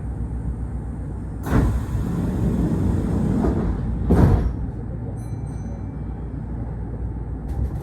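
Passenger doors of a Kintetsu train sliding shut: a thump about a second and a half in, a rush of noise, then a heavier thump around four seconds in, over the low rumble of the standing train.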